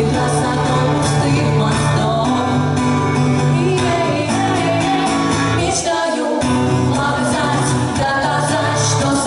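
Women singing a song over instrumental backing with sustained bass notes; the bass drops out briefly about six seconds in.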